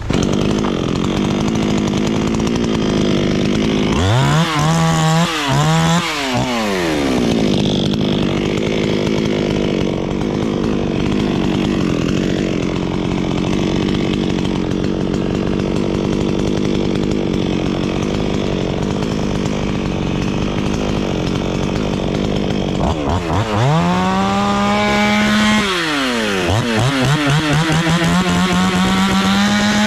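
Two-stroke chainsaw running hard without a break. Its engine speed falls and climbs again twice, once a few seconds in and again near the end, as it is throttled and loaded in the cut.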